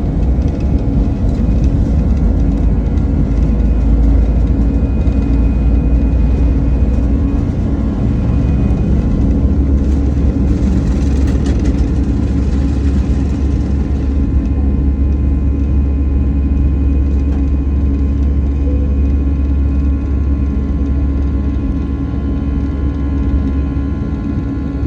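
Jet airliner's engines running at high power during takeoff: a steady loud rumble with steady engine tones. A hiss rises briefly about ten seconds in and fades a few seconds later.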